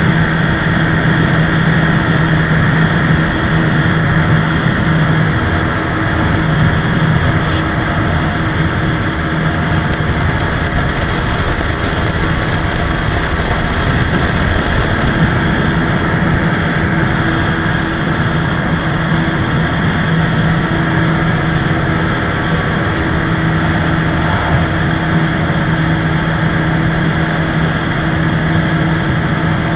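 TVS Apache RTR 160 4V single-cylinder motorcycle engine running at steady revs on a high-speed run, under a constant rush of wind noise.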